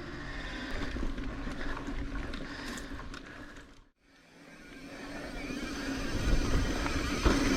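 Wind noise on the camera microphone and tyre rumble from a mountain bike riding along a dirt trail. The sound fades almost to nothing a little past halfway, then builds back up louder.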